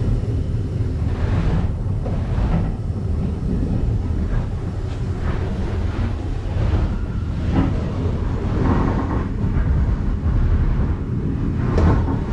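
Passenger train running at speed, heard from inside the carriage: a steady low rumble of wheels on the rails with a few short knocks and rattles.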